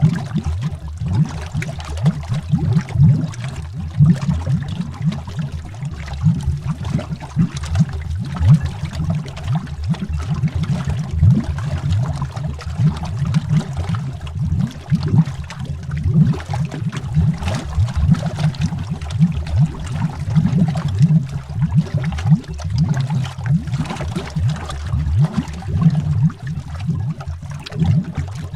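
Underwater bubbles rising and bursting in a continuous stream of low, rapid pops and gurgles.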